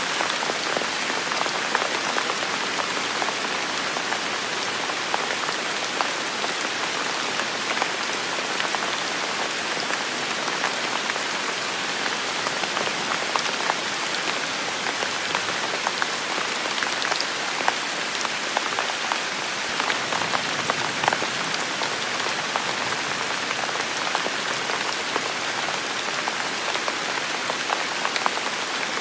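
Heavy rain falling steadily, an even hiss of rainfall with many individual drops pattering and ticking on surfaces.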